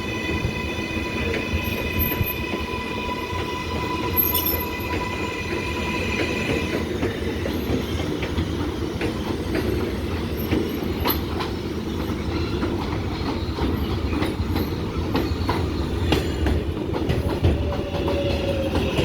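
R188 subway train running on the 7 line: steady rumble of wheels on rail with scattered clicks. High steady tones, typical of wheel squeal, sound over the rumble for the first six or so seconds, then fade out.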